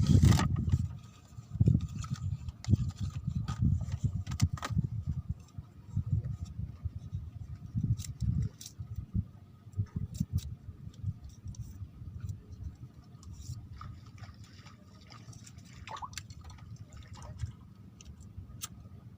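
Water sloshing and splashing in uneven surges, with a few sharp clicks, dying down over the second half.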